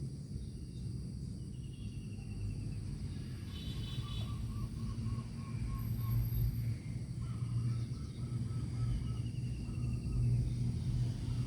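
Low steady rumble with a thin, steady high insect hum, over which faint bird calls come: two runs of short repeated notes at about five a second, a few seconds in and again past the middle, plus brief trilled chirps.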